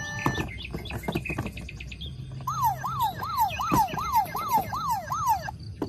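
Electronic toy siren sounding a repeated falling yelp, about eight sweeps in three seconds, after a couple of seconds of clicking and rattling.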